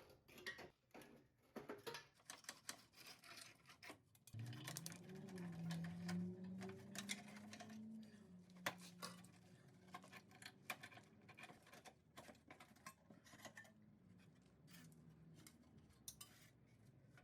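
Faint clinks and clicks of metal tools and engine parts being handled, with a low hum that starts about four seconds in, rises in pitch, then holds and slowly drifts down for most of the rest.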